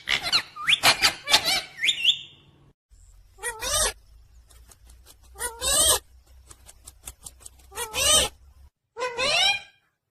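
Pet parrot chirping: a quick run of squeaky, rising-and-falling calls, then single calls about every two seconds, with a run of quick clicks in the middle.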